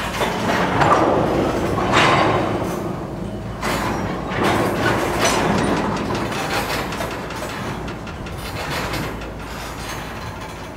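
Freight train noise: a steady rumble with irregular metallic knocks and clanks, loudest in the first few seconds and easing off toward the end.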